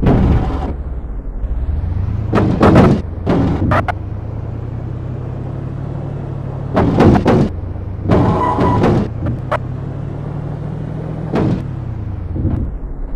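Car engine running with a low, steady drone, broken by half a dozen short, loud bursts of noise and thuds.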